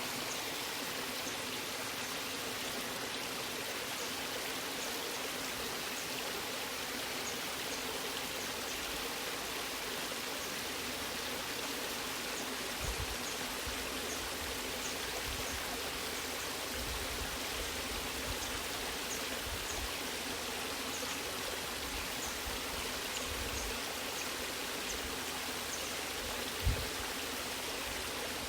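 Waterfall water rushing in a steady, even wash, with scattered low bumps and one brief low thump near the end.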